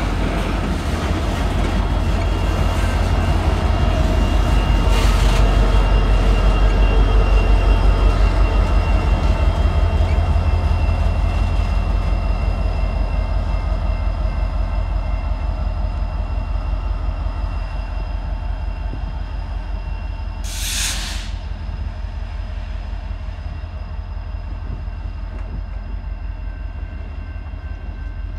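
BNSF coal train passing: hopper-car wheels clatter in a steady rhythm with a ringing squeal. The rear distributed-power diesel locomotive rumbles past, and the sound slowly fades as the train pulls away.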